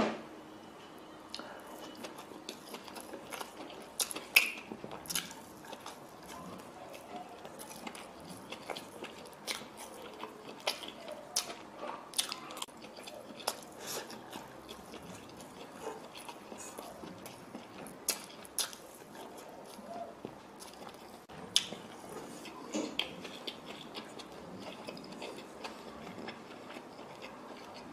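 A person chewing fried rice with egg, eaten by hand: wet mouth smacks and clicks at an irregular pace, with a few louder smacks, the loudest about four seconds in.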